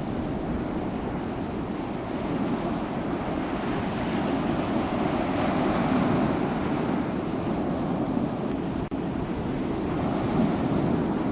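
Sea waves washing onto a shore: a continuous rushing surf that swells and eases gently, with a momentary dropout about nine seconds in.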